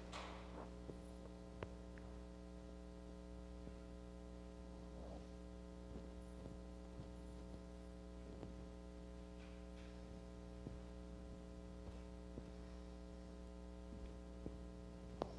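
Steady electrical hum from a sound system in a pause, with a few faint scattered clicks and one sharper click near the end.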